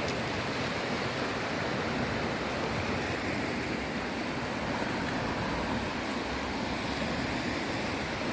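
Sea waves, a steady rushing wash of surf.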